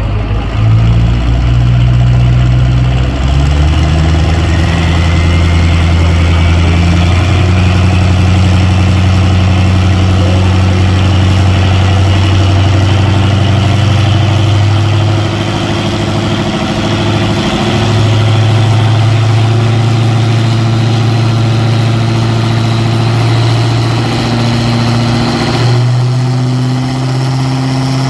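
A 2006 Chevy pulling truck's engine running loud and steady under load down the pull track, with a whine rising slowly in pitch and the engine note stepping in pitch a few times.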